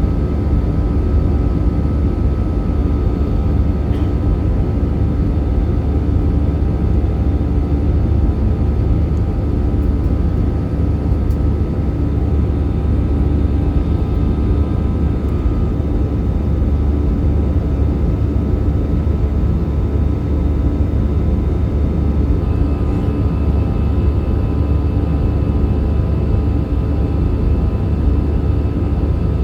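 Steady cabin noise of an Airbus A320-214 in flight: a constant low rumble of its CFM56 engines and the airflow, with a few faint steady tones above it.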